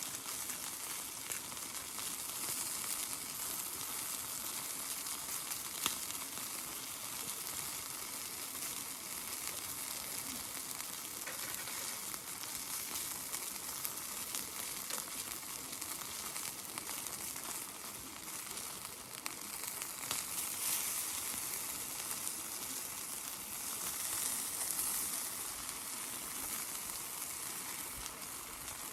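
Pork belly skewers sizzling over binchotan charcoal: a steady, hissing sizzle from fat dripping onto the hot coals, dotted with small pops.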